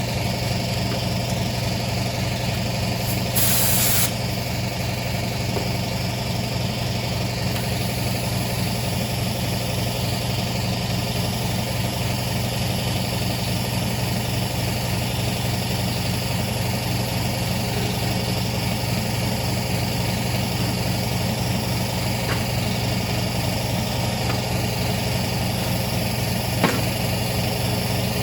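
Lawnmower engine running steadily at an even speed, with a brief high hiss about three seconds in.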